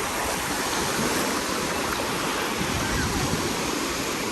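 Shallow sea water splashing and lapping, a steady rush of water.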